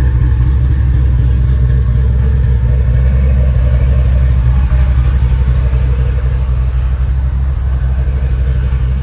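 454 big-block V8 of a Chevrolet Chevelle idling with a steady, deep rumble.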